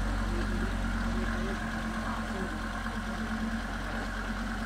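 Mercedes-Benz saloon's engine idling steadily as the car rolls along at walking pace, a low even hum, with faint voices in the background.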